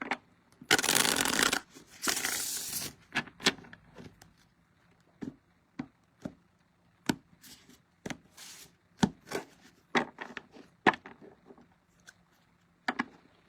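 A tarot deck being shuffled by hand: two brief rushing shuffles about a second in, then a string of sharp card snaps and taps as the cards are worked and laid down.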